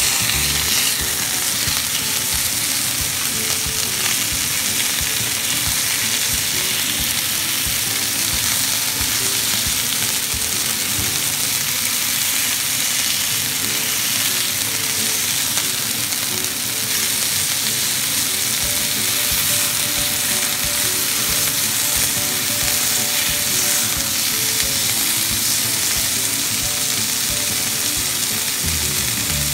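Chunks of lamb searing in hot oil in a stainless steel frying pan: a steady sizzle.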